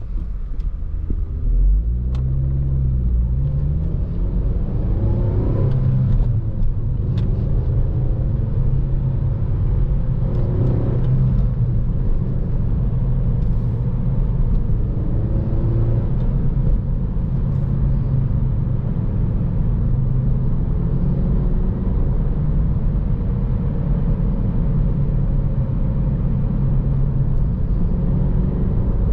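Cabin sound of a 2014 Honda Civic Si on the move: a steady low engine and road rumble. The engine pitch rises and falls a few times in the first half, as with acceleration and gear changes.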